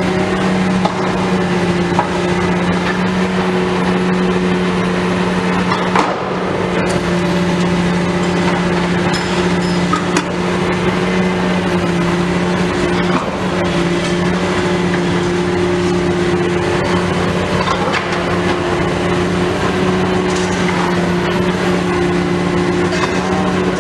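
Heavy demolition machinery running steadily with a deep, even engine hum, with a few sharp knocks and clanks of debris.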